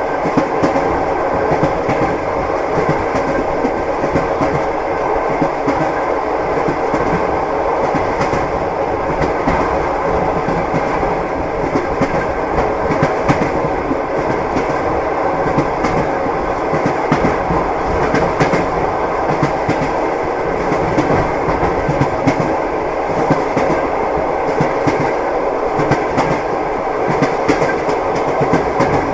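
Train wheels clattering over the rail joints, heard from inside a passenger compartment: a steady rumble with repeated clickety-clack knocks.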